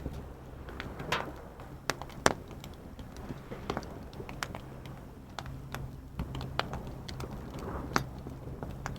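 Wood campfire crackling, with irregular sharp pops, one of them much louder a little over two seconds in. A steady low hum runs underneath.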